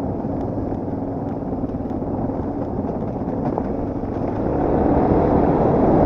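Enduro motorcycle engine running steadily, growing louder over the last couple of seconds.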